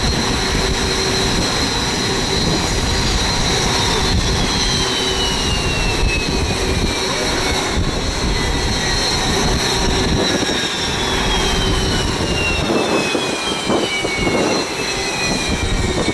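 Jet engines of Red Arrows BAE Hawk T1 trainers, a high whine over a steady rush, with several whining tones that fall slowly in pitch.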